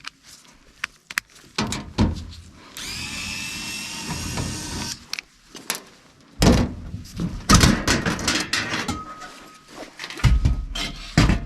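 A cordless power driver whirs for about two seconds, backing screws out of a furnace access panel. This is followed by repeated knocks and thunks as the sheet-metal panel is worked loose and handled.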